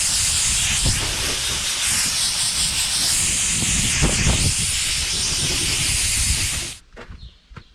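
A loud, steady hiss of air or spray under pressure that starts abruptly and cuts off suddenly near the end, with a couple of dull knocks underneath.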